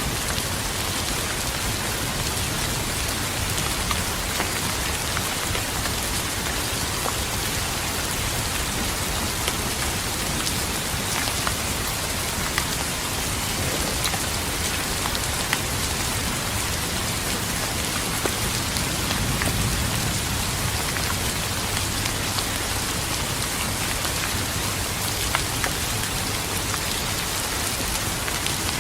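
Steady, heavy rain falling on a surface, with individual drops ticking through the hiss. A faint low rumble swells briefly about two-thirds of the way in.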